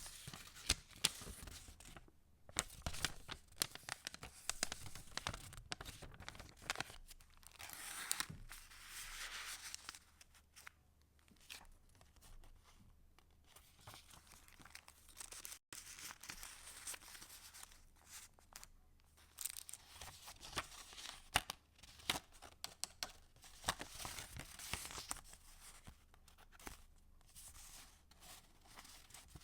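Paper pages of a handmade junk journal being turned and handled: irregular rustling and crinkling with small ticks and taps. There is a brief break about halfway through.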